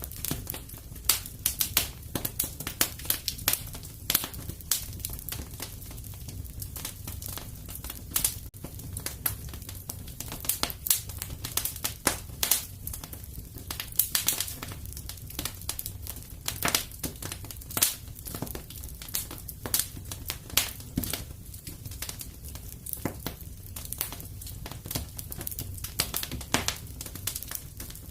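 Fireplace fire crackling: a continuous run of irregular sharp pops and snaps over a steady low rumble of the flames.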